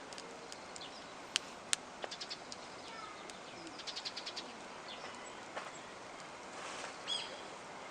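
Wood campfire crackling: sharp pops and quick runs of small ticks over a steady hiss, with birds chirping in the background and a louder bird call near the end.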